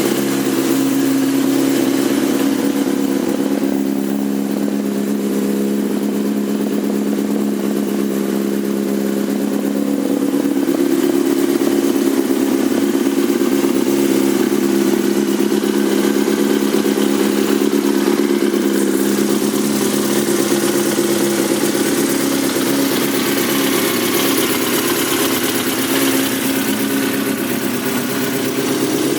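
2004 Yamaha YZF-R6's 600 cc inline-four, fitted with a Yoshimura exhaust, idling steadily after a warm start, running smoothly at an even pitch.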